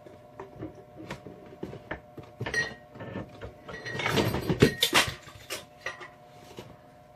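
Hammer tapping the flared end of a copper tube flat while it is held in a flaring-tool clamp block: a string of sharp metallic taps at uneven spacing, quickest and loudest about four to five seconds in, some with a short ring.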